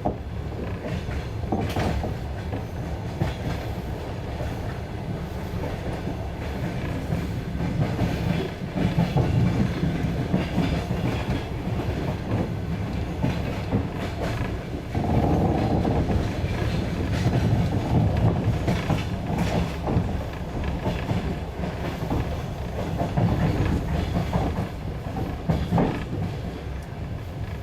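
Passenger train carriage running, its wheels rumbling and clicking over the rail joints, heard from inside the carriage at the window, with a louder stretch about halfway through.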